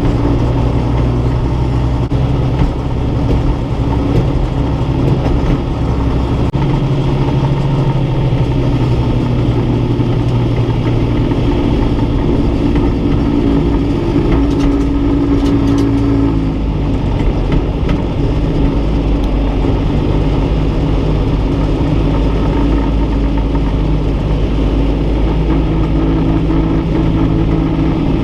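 Farm tractor engine running steadily, its engine speed changing a couple of times.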